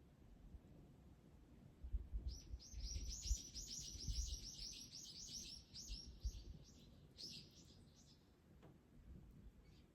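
A small songbird calling: a rapid run of high, falling notes, about five a second, for some four seconds, with a few more notes shortly after. Faint low rumbling thuds run underneath.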